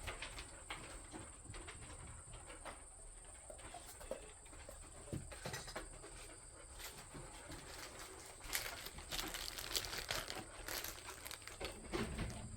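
Faint rustling and scattered light clicks and knocks of smoker parts being handled during assembly, busier about two-thirds of the way through.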